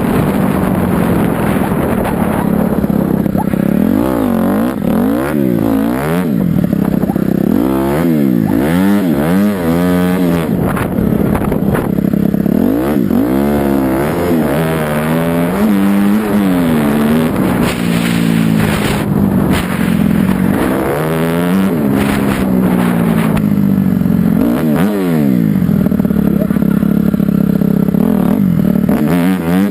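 Dirt bike engine revving up and down over and over, its pitch rising and falling every second or two.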